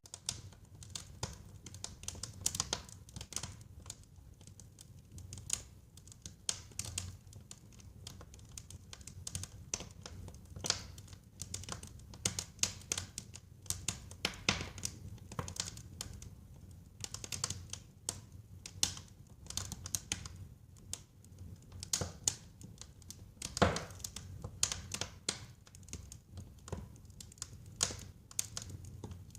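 Wood fire burning in a fireplace, crackling with frequent irregular pops and snaps over a low, steady rumble of the flames; one sharper, louder pop comes a little past three quarters of the way through.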